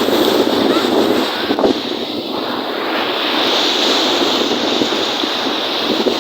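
Wind-driven lake waves washing and splashing, with wind blowing on the microphone.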